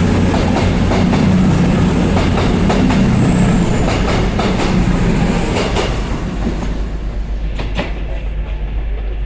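Class 221 Voyager diesel-electric unit moving through under power, its underfloor diesel engines running with a steady low drone and a high whine that fades away about three and a half seconds in. The wheels click over rail joints, and the whole sound eases off after about six seconds as the train draws away.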